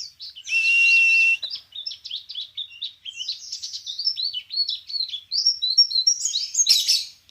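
A songbird singing a fast, varied string of chirps and trills, with one long steady whistled note about half a second in.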